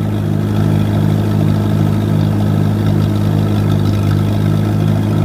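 A 1953 Allis-Chalmers WD tractor's four-cylinder engine running steadily at a constant speed, with an even throb.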